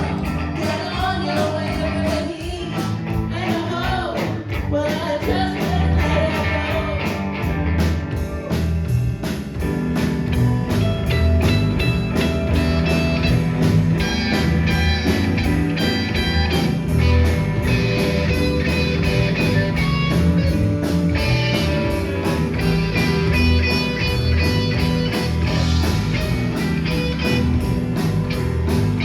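Live rock band playing: a singing voice over electric guitar, bass and drums for the first several seconds, then the band carries on without the voice, guitar to the fore, over a steady beat.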